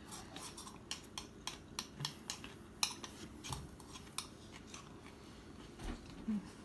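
Chewing a raw Jamaican hot pepper up close: a string of faint, irregular crunching clicks.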